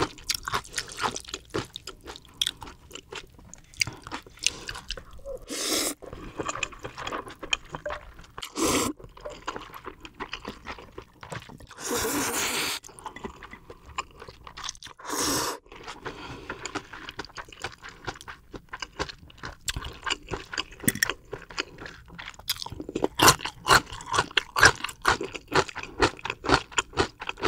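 Close-miked chewing and crunching of food by a person eating, with a few longer, louder noisy sounds about 6, 9, 12 and 15 seconds in, and denser crunching near the end.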